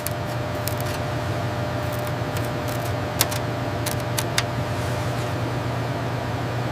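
Steady mechanical hum with hiss, like a running machine or ventilation, with a few sharp clicks scattered through it.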